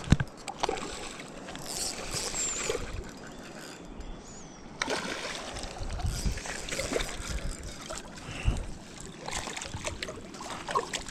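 Water splashing and sloshing at the water's edge, with irregular knocks and rustles from handling.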